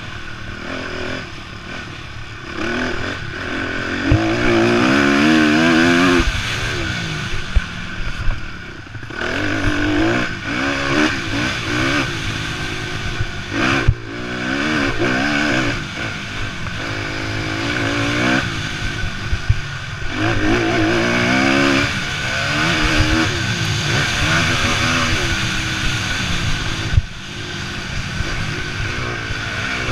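Motocross bikes racing: engines revving up and down through the gears as riders pass, several times loud and close.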